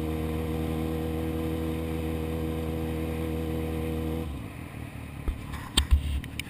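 Sport motorcycle engine running at a steady, even pitch while cruising. Just past four seconds in the engine note stops suddenly, and a few knocks and thumps follow.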